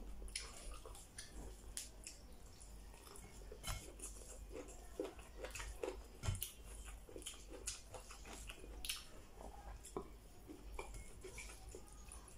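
Faint, irregular chewing and lip-smacking of a man eating rice and vegetables with his fingers, a scatter of small wet clicks several times a second.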